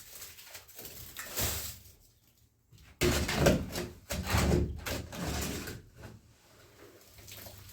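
Irregular scraping and knocking of hand work with tools or materials, in separate strokes with short pauses. The sounds grow louder and more frequent from about three seconds in.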